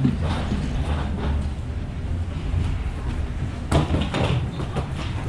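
Background noise of an airport terminal walk: a steady low rumble with a few short knocks or thuds, the clearest a little under four seconds in.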